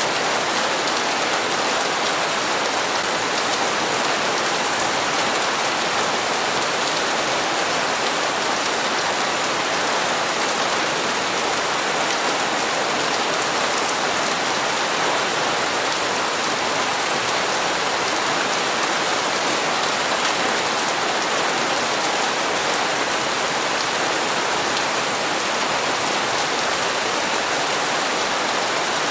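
Steady rain falling and pattering on hard surfaces, an even hiss with fine drop ticks and no change in level.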